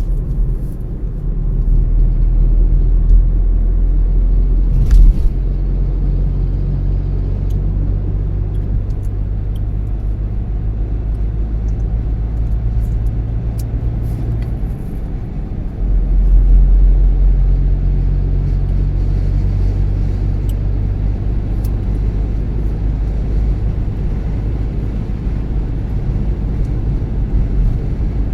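A car driving along a road: a steady low rumble of engine and tyres with a low hum. A single sharp knock about five seconds in, and the rumble grows louder about sixteen seconds in.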